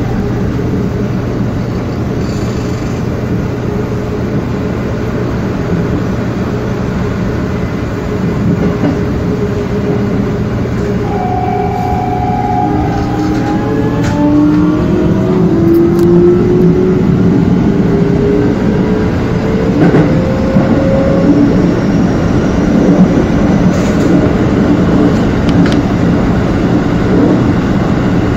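Keikyu Main Line local electric train running, heard from inside the front car: a steady hum at first, then from about halfway the motors' whine rises in pitch and the sound grows louder as the train accelerates.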